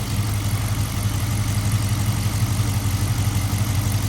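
V8 engine idling steadily, a low, even rumble.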